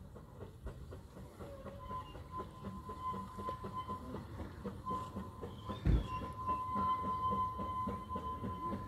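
Ffestiniog Railway narrow-gauge train on the move, its running gear giving a rapid run of knocks that grows louder as it nears. A thin, steady high squeal sets in about two seconds in, with one heavy thump about six seconds in.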